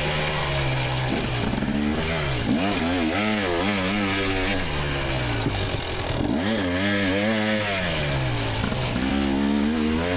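2024 GasGas EX300 two-stroke dirt-bike engine being ridden hard, its pitch climbing and dropping again and again as the throttle is opened and closed.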